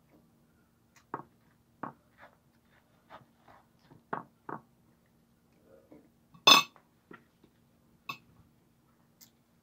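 Close-up eating sounds: chewing and mouth smacks in short separate bursts every half second or so, with one louder sharp click about six and a half seconds in, over a faint steady hum.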